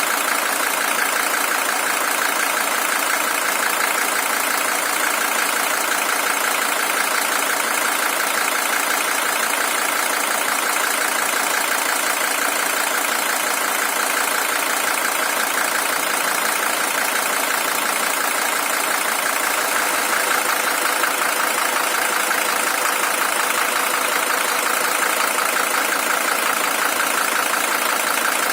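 Mercedes-Benz OM617 five-cylinder diesel engine of a W123 300TD idling steadily, a high-mileage original engine with about 620,000 km on it.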